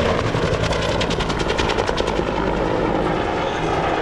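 Vietnam-era Bell helicopter with a two-bladed main rotor flying in the demonstration: steady turbine and rotor noise, with a rapid, even beating of the rotor blades, about ten beats a second, for a second and a half near the start.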